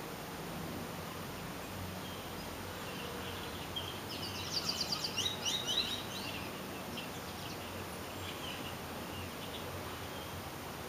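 A bird calling in a quick run of high chirps for about two seconds midway, over a steady background hiss.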